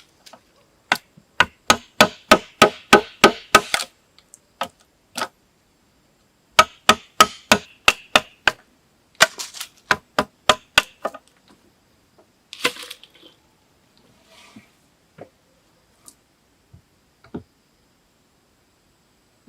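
Hand tool striking wood repeatedly: three runs of sharp strikes at about four a second, each strike ringing briefly. About halfway through comes a short rustling crack, then a few scattered faint knocks.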